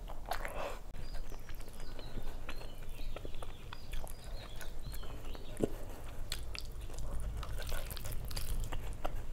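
Close-miked chewing and wet mouth clicks from a mouthful of rice and fried fish, with irregular small clicks from fingers mixing the food on the plate.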